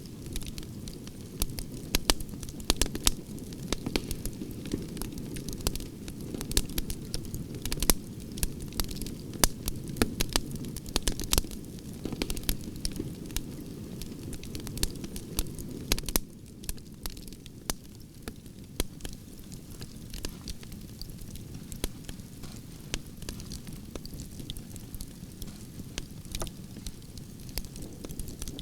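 Branches burning in a campfire: a steady low roar of flame with frequent sharp crackles and pops of the wood throughout.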